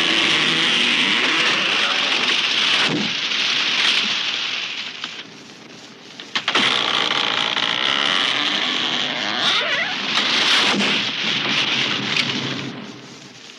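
Tree crashing down: a long run of crackling, splintering branches and wood that dies down about five seconds in. A second crash starts abruptly about a second later and fades out near the end.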